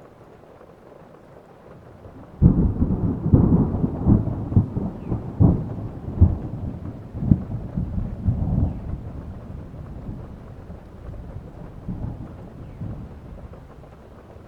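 A thunderclap breaks about two seconds in: a sudden crack, then rolling rumble with repeated sharp cracks that slowly fades away, over steady rain.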